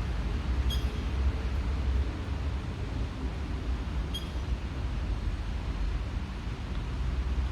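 Outdoor ambience: a steady low rumble and hiss, with a short high chirp about a second in and again about four seconds in.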